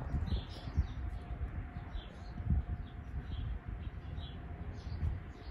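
Small bird chirping, short high chirps repeating about once or twice a second, over a steady low rumble of nearby highway traffic.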